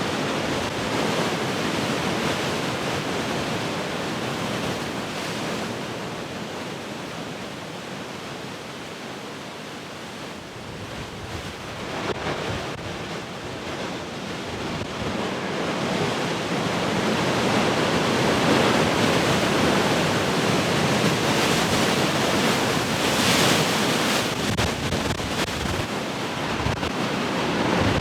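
Large ocean waves breaking and washing in as a continuous surf noise. The surf eases to its quietest about a third of the way in, then builds again to a louder surge past the middle and once more near the end.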